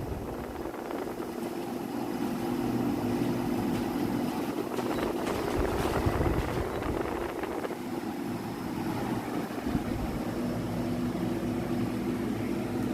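Portable air conditioner running on its lowest setting: a steady hum from the fan and compressor over a rush of airflow.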